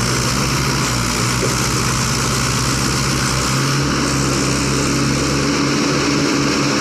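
Tractor's diesel engine running steadily, its note shifting slightly a little over halfway through.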